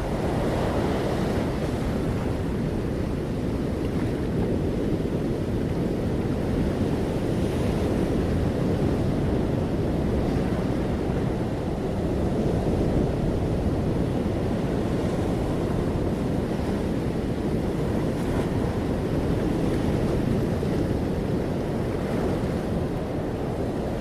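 Steady low rushing noise with no distinct events, holding an even level throughout.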